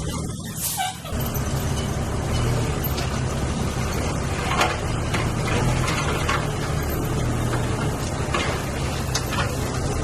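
Diesel engine of heavy earthmoving machinery running steadily, with a few short sharp knocks scattered through. There is a brief drop in the sound about a second in.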